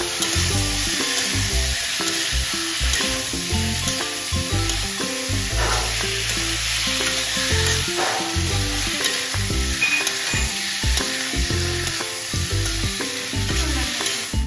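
Chicken feet, onions and chillies sizzling in hot oil in an iron wok as they are stirred and turned with a spatula. Background music plays underneath.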